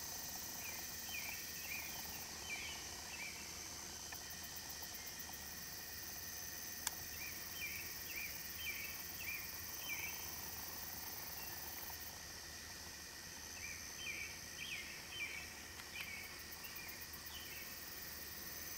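A bird singing in three separate bouts of quick chirping notes, over a steady faint high hiss, with a single sharp click about seven seconds in.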